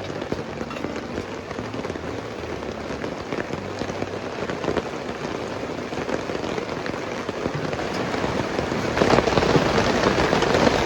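Fairly heavy rain falling, with many separate drops striking close by. It grows louder about nine seconds in.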